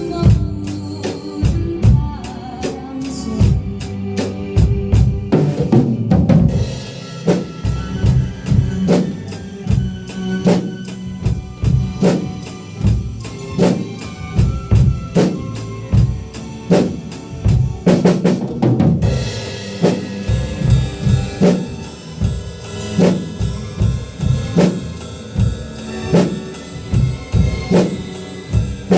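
Drum kit played by a beginner along to a recorded song, keeping a steady beat on bass drum, snare and hi-hat, with cymbal crashes about six seconds in and again near nineteen seconds. The song's accompaniment sounds underneath.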